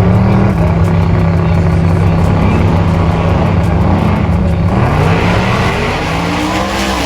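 Race truck engine running hard at steady high revs, then climbing in pitch over the last two seconds as it accelerates.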